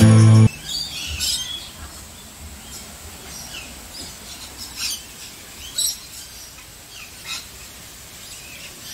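Birds calling in a free-flight aviary: short, sharp, high-pitched calls about once a second over a steady background hiss.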